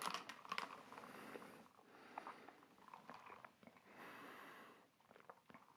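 Faint sounds of a person sipping a cocktail from a glass: small clicks and slurps in the first second, and a soft breath about four seconds in.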